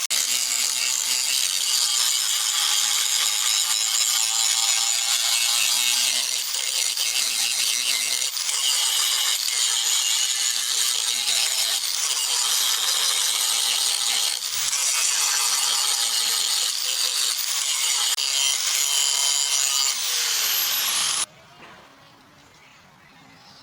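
Abrasive power tool, such as a grinder or sander, running steadily against the workpiece with a continuous high rasping. It cuts off suddenly near the end.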